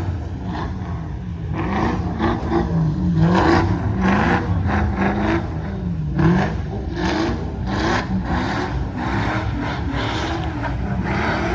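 Car engine revving up and down again and again, as a car spins donuts at a street sideshow.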